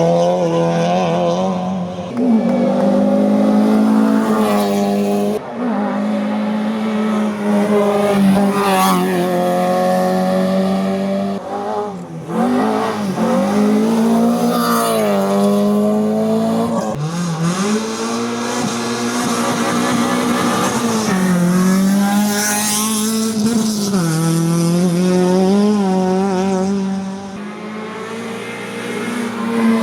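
Hillclimb race car engine running at high revs, its pitch dropping and climbing again several times as it lifts off and accelerates hard through corners.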